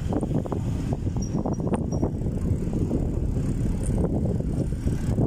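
Steady low rumble of wind buffeting the microphone and road noise from a moving bike, with a few short rattles in the first couple of seconds.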